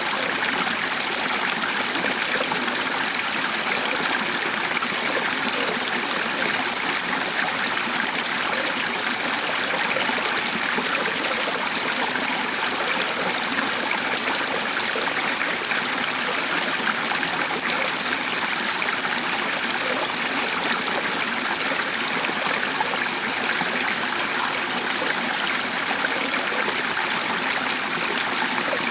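A stream of water running and trickling steadily.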